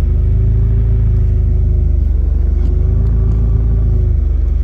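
Turbocharged car engine idling steadily, a low even rumble heard from inside the cabin. At this idle it pulls about 20 inHg of vacuum.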